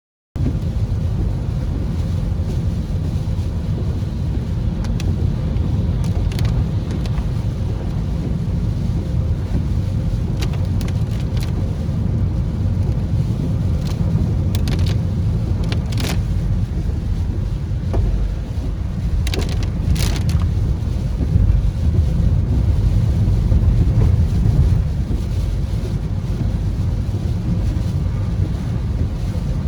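Rain outdoors with wind buffeting the microphone, making a steady low rumble, with scattered sharp ticks through the middle.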